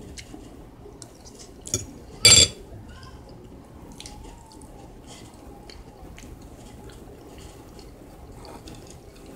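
Close-up eating sounds: wet chewing and small mouth clicks. About two seconds in, a short sharp clink as the metal utensil is set down on the ceramic plate.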